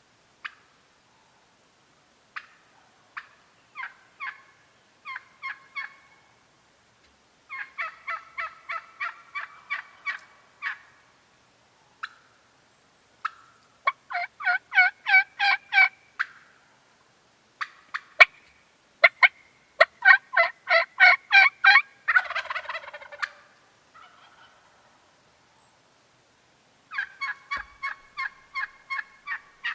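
Turkey yelping: several runs of rapid yelps, about four a second, with scattered single notes before them. The loudest run comes just past the middle and ends in a short raspy note.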